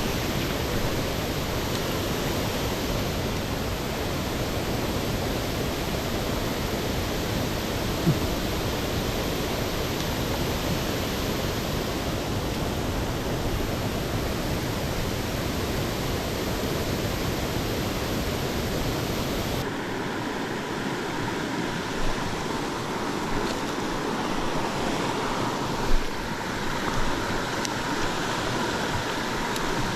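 Mountain stream water rushing steadily over rocks. About two-thirds through, the sound changes abruptly and loses its deepest rumble, and a few short knocks or clicks stand out above the water.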